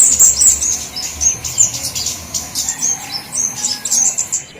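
A chorus of small songbirds, flowerpeckers among them, giving rapid, high-pitched chips and twittering notes, the kind of noisy calling used as a bird-lure recording. The calling thins out and gets quieter near the end.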